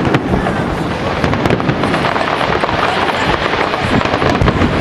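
Fireworks display going off steadily: a dense, continuous crackle of many small pops and bangs with no single standout burst.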